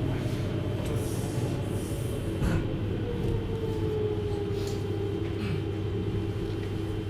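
733 series electric train running: a steady rumble of wheels on rail with a whine that falls in pitch about halfway through and then holds steady, and a single clack about two and a half seconds in.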